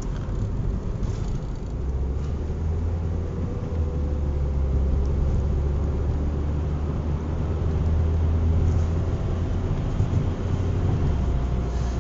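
Car driving along a road, heard from inside the cabin: a steady low engine and road rumble.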